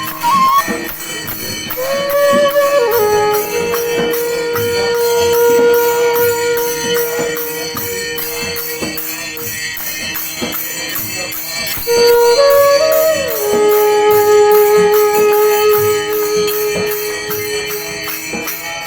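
Traditional Indian music: a wind instrument playing long held notes that slide from one pitch to the next, over a steady beat of jingling percussion.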